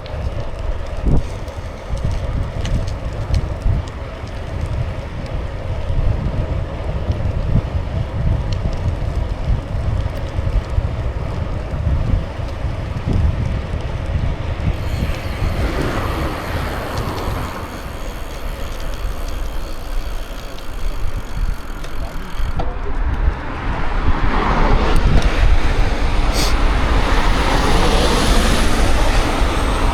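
Wind buffeting the microphone over the rolling noise of bicycle tyres, a steady low rumble that rises into a louder rush about halfway through and again near the end.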